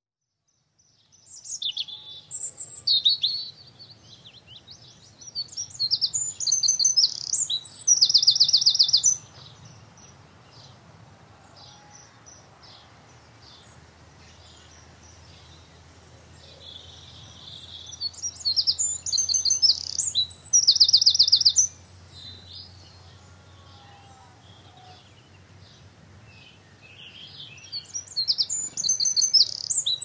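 Songbirds calling in high-pitched chirps and fast trills, in several loud bursts with quieter stretches between, over a faint low steady hum.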